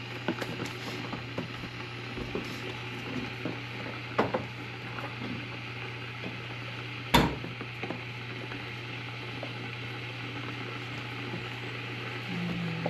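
Kitchen handling sounds: scattered light clicks and knocks of utensils and dishes over a steady hum and hiss, with one sharp knock about seven seconds in.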